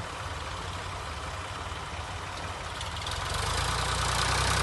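Heavy farm-machine engine running at a steady idle, growing louder about three seconds in.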